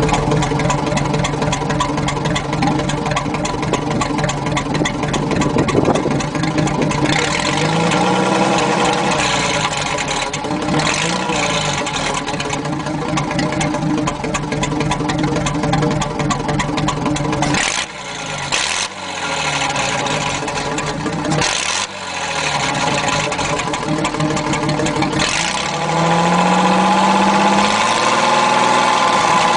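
Ford F3 pickup's 226 cubic-inch flathead inline-six running through a straight-pipe exhaust, loud and unmuffled. Engine speed rises and falls several times, with a few brief drops in level a little past the middle and a climb in revs near the end.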